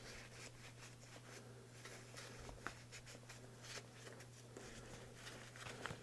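Near silence: a steady low hum with faint scattered clicks and rustles of small handling noises, a slightly sharper tick about two and a half seconds in.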